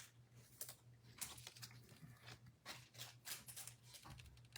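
Faint soft clicks and rustles of trading cards and pack wrappers being handled, over a low steady hum.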